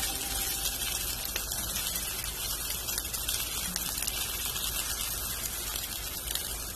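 Salmon fillets frying in olive oil in a stainless steel skillet: a steady crackling sizzle.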